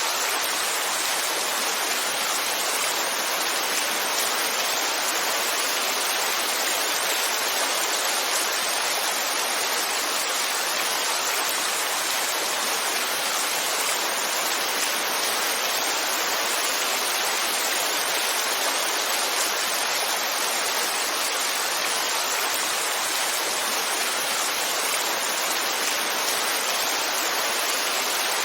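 Heavy rainfall: a steady, even hiss of falling rain that does not change.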